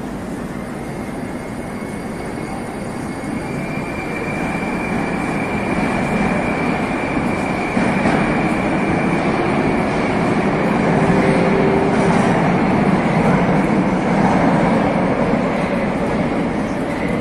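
Moscow metro train pulling out of the station platform, running louder as it gathers speed, with a steady high whine over the rumble of the wheels.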